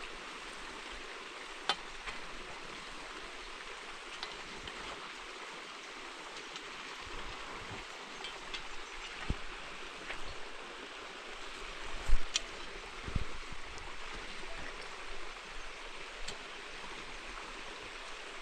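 Steady rushing noise like running water, with scattered knocks and thumps; the loudest is a heavy thump about 12 seconds in.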